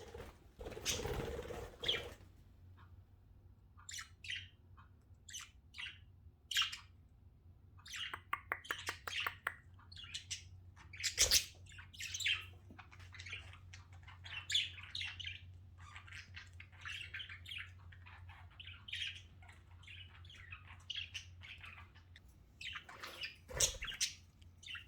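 Budgerigars chirping and squawking in short, irregular calls, with a quick run of rapid clicking chatter part-way through. A low steady hum runs underneath.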